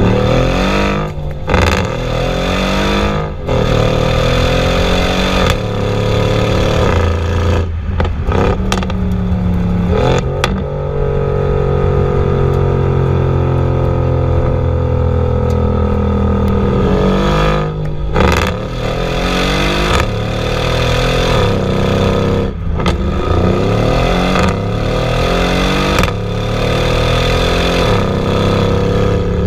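Performance SUV's twin-turbo V8 under full-throttle acceleration, its engine note climbing in pitch through each gear and dipping briefly at several quick upshifts. The longest pull comes in a high gear near the middle.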